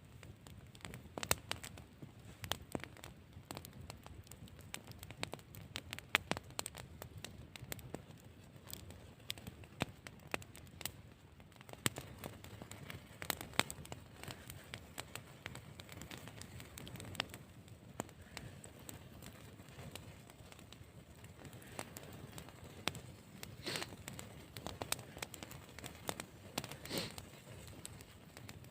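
Wood fire crackling, with irregular snaps and pops.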